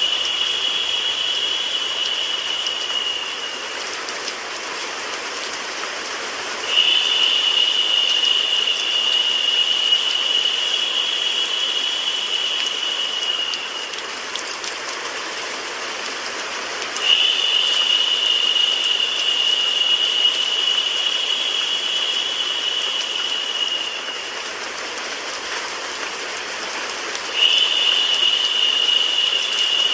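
Steady rain sound mixed with white noise. A brighter, higher hiss comes in for about seven seconds and drops out for about three, over and over, the sign of a looped track.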